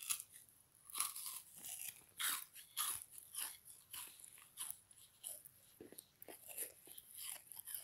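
Frozen sponge block being bitten and chewed: a run of irregular crisp crunches, about one to two a second, loudest in the first few seconds and a little softer towards the end.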